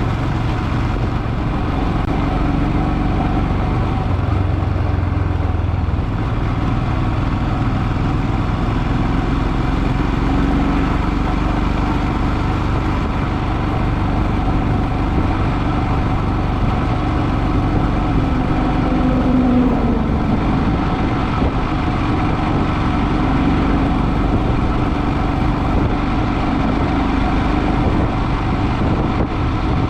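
Motorcycle engine running steadily while riding along, its hum mixed with continuous road noise, the pitch drifting slightly with speed.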